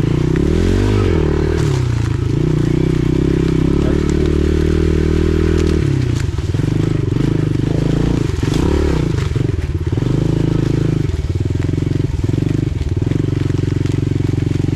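Pit bike engine running while riding, the revs rising and falling with the throttle: a rev up and back down about a second in, a drop near six seconds, and a few quick blips around eight to nine seconds.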